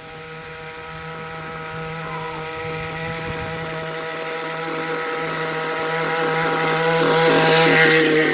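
Small motorcycle engine running at a steady pitch as it approaches, growing steadily louder and at its loudest near the end.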